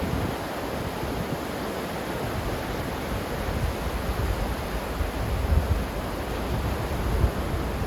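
Ocean surf washing steadily, with low wind rumble on the microphone that grows stronger in the second half.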